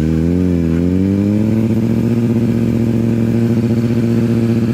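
Motorcycle engine revving, its pitch wavering up and down for the first second or so, then held steady.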